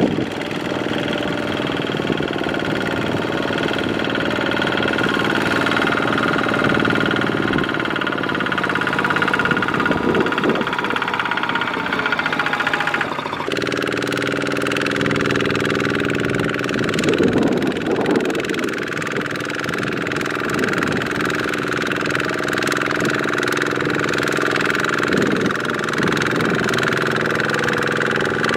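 Single-cylinder diesel engine of a Kubota walking-type mini tractor running steadily under load while it works in deep mud. The engine note shifts abruptly about halfway through.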